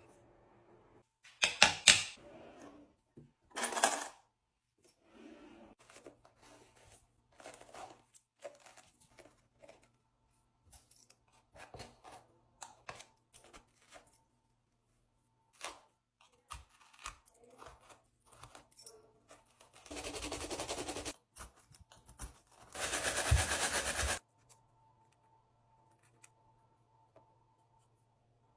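Small items being handled and set down: scattered light clicks and taps, with two sharp clacks in the first few seconds. Later come two rushing, noisy sounds of about a second each, the second one louder.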